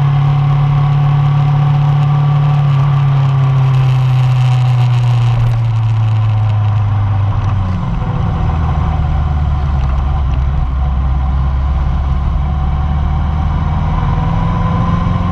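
A 1999 Yamaha R1's inline-four engine on a motorcycle, heard close up, its note sinking slowly as the bike slows. About halfway through, the note drops to a lower, steady pitch and holds there.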